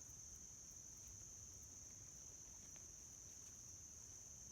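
Insects chirring in a steady, unbroken high-pitched drone, faint against near silence.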